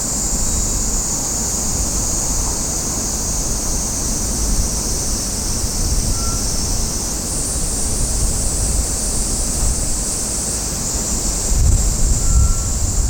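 Wind buffeting the microphone in gusts, a low rumble that strengthens near the end, under a steady high-pitched buzz.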